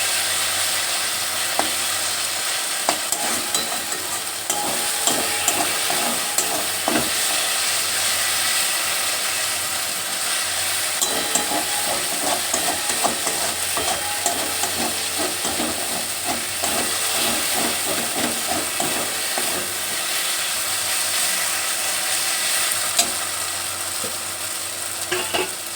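Masala spice paste frying and sizzling in a pan while a spatula stirs and scrapes it over and over, with frequent short scrapes and clicks against the pan. The paste has started to stick to the bottom because it wasn't stirred.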